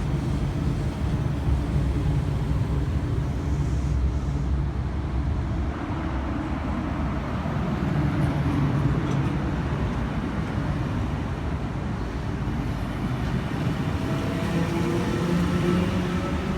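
Double-deck V set electric intercity train pulling out of the platform, a steady low rumble under wind noise on the microphone; in the last few seconds a faint whine rises in pitch as it gathers speed.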